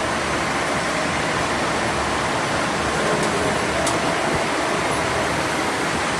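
Mishima CNC0640 lathe running while turning a flange: a steady, even machining noise, with a couple of faint ticks in the middle.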